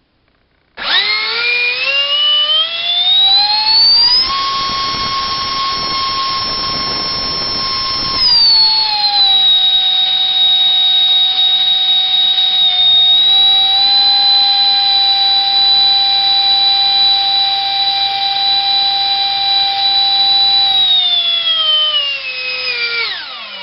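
64mm electric ducted fan driven by a GoolRC 2968 3800kv brushless motor, spooling up with a rising whine. It holds a high pitch for about four seconds, then eases back to a lower steady whine at about half throttle for some twelve seconds, producing around 1100 grams of thrust. Near the end it winds down with a falling whine.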